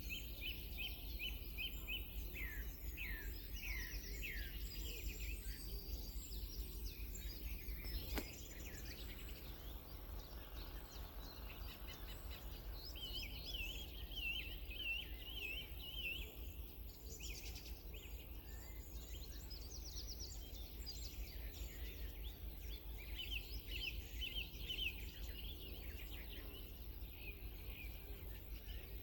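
Songbirds singing: repeated phrases of quick, high chirps and trills, over a steady low background hum, with one sharp click about eight seconds in.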